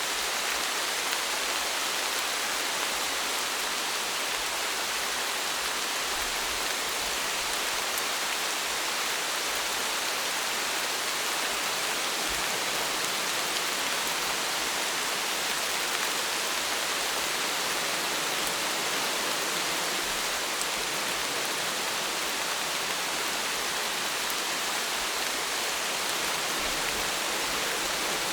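Steady rainfall: an even, unbroken hiss of rain with no distinct drops standing out.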